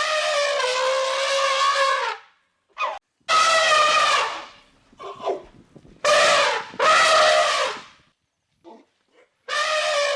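An animal giving a series of long, drawn-out, horn-like calls of one to two seconds each, with short pauses between them.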